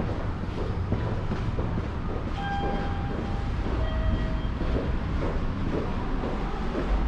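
Subway train running with a steady low rumble, with two brief high tones about two and a half and four seconds in.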